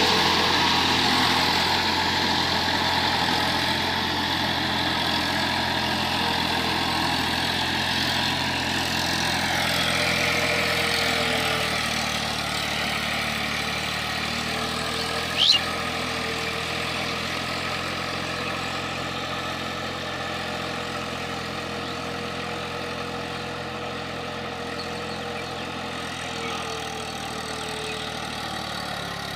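Eicher 480 tractor's diesel engine running steadily, slowly growing fainter. A brief high chirp about halfway through.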